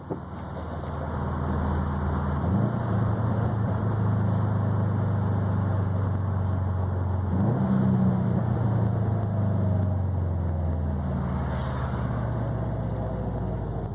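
A 2020 Subaru WRX STI's turbocharged flat-four running through an ETS quiet cat-back exhaust with a resonated mid pipe, cruising with a steady low drone. The engine note sweeps up quickly twice, about two and a half and seven and a half seconds in, then settles again.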